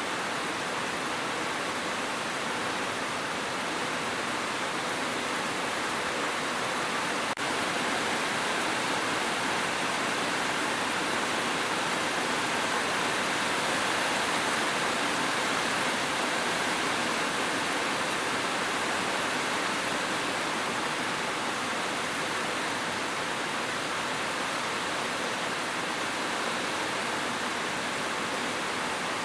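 Steady rain, an even hiss of falling water with no drops standing out, broken only by a momentary dip about seven seconds in.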